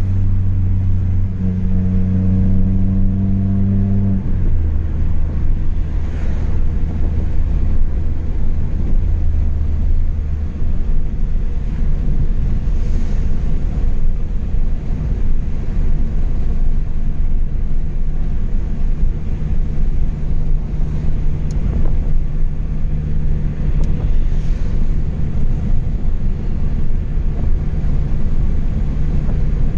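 Chevrolet Astra 2.0's four-cylinder engine running through a straight-through exhaust with no mufflers, a loud steady drone while driving. About four seconds in the engine note drops suddenly to a lower pitch, then holds steady.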